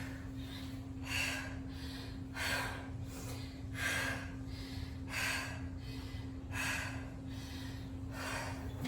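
A woman breathing hard from exertion in the middle of a high-intensity workout set: six sharp, forceful breaths, about one every second and a half, over a steady low hum.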